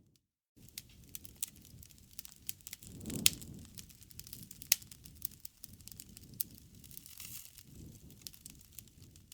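Wood fire burning, crackling with frequent sharp pops over a low rumble of flame. The loudest pop comes about three seconds in, and another sharp one near five seconds. The sound drops out briefly at the very start.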